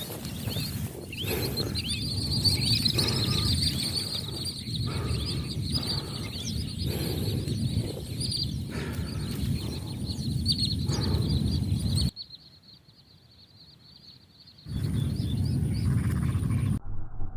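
Outdoor ambience: low rumbling wind-like noise with a steady high-pitched buzz and scattered small chirps over it, dropping out to near silence about twelve seconds in for a couple of seconds before resuming.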